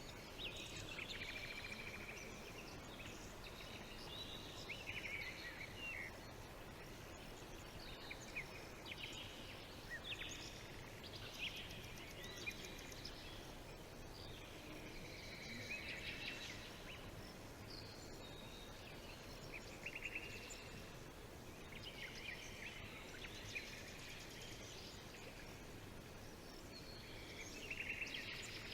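Several birds calling, with overlapping chirps, quick trills and short gliding whistles coming every second or two, over a steady background hiss.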